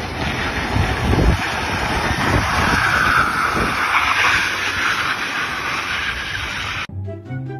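Loud, steady mechanical noise with a low rumble, like a heavy machine running; it cuts off abruptly near the end.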